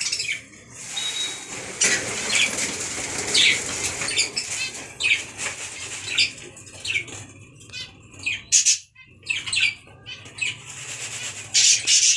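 Birds in a large cage fluttering and flapping their wings in a run of short, irregular bursts, with a few brief calls mixed in.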